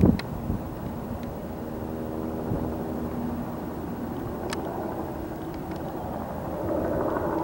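Twin Pratt & Whitney PW306C turbofans of a Cessna Citation Sovereign running as the jet lands. The steady engine whine holds several pitches and swells louder near the end, with a gust of wind on the microphone at the very start.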